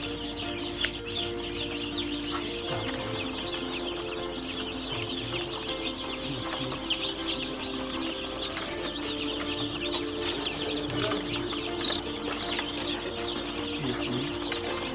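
A brood of young chickens peeping and chirping continuously in a dense, overlapping chatter, with music playing underneath.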